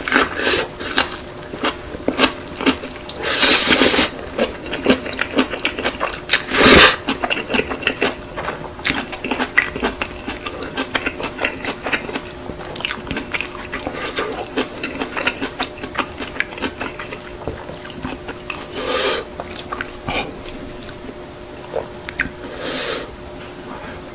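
Close-miked chewing of spicy chicken noodles rolled in kimchi: a dense run of wet, crunchy mouth clicks, with two louder bursts in the first seven seconds and a faint steady hum underneath.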